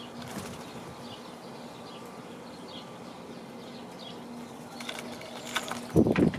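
Small birds chirping at a feeder, with a steady low hum under them; about six seconds in comes a short loud flurry of a bird's wings flapping.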